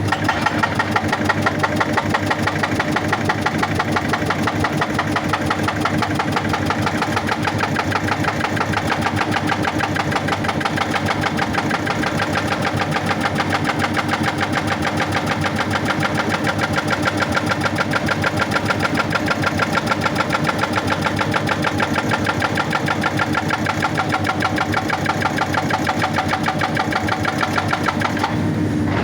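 Excavator's hydraulic rock breaker hammering rock in rapid, even blows over the running excavator engine, stopping shortly before the end.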